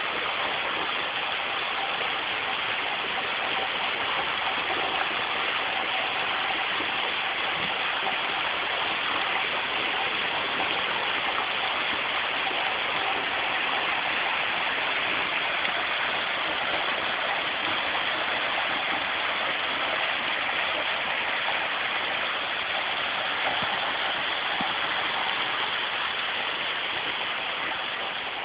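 Small waterfall, water splashing and rushing steadily as a constant hiss.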